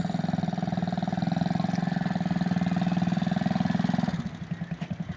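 Motorcycle engine running at a steady speed with a fast even pulsing, dropping to a quieter, choppier idle about four seconds in.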